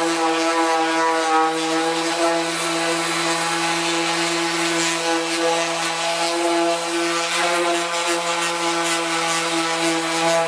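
Power sander running steadily at a constant pitch, sanding the paint on a car door panel.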